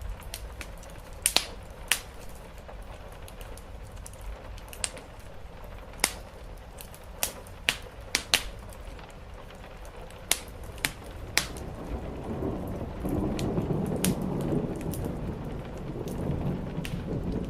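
Wood fire crackling with scattered sharp pops over steady rain on a roof. About two-thirds of the way in, a low rumble of distant thunder swells and then fades.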